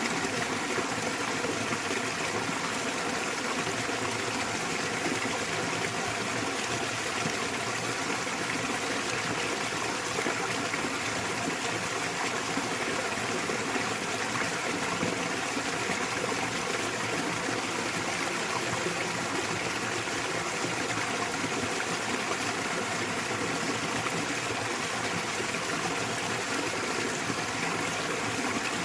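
Small waterfall in a mountain stream, water falling and rushing in a steady, unbroken wash.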